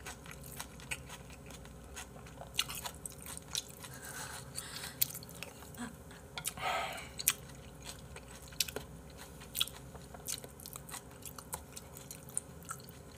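Close-up chewing and mouth sounds of a man eating spoonfuls of braised-monkfish bibimbap, with many short clicks and smacks.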